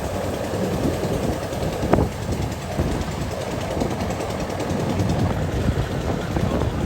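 Rice combine harvester running steadily in a flooded field, a dense mechanical engine noise, with a single sharp click about two seconds in.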